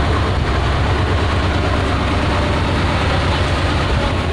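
Heavy engine running steadily and loudly, with a strong low rumble that eases a little near the end.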